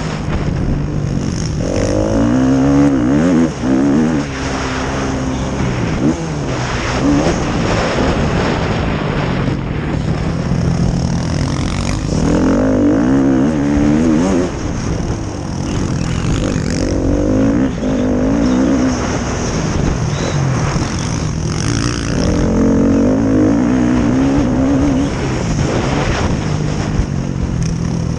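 Motocross bike engines racing, revving up and down hard with the pitch wavering as bikes accelerate and shift; the revving swells loudest three times, a few seconds in, around the middle and near the end, as bikes pass close.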